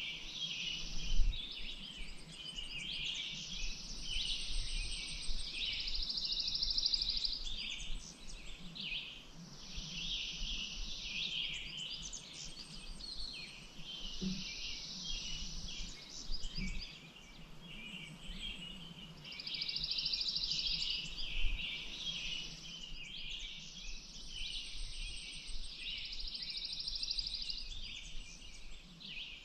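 Songbirds singing and chirping together in a dense chorus, with fast buzzy trills repeating every few seconds over the chirps. A few brief low thumps come through, the loudest about a second in.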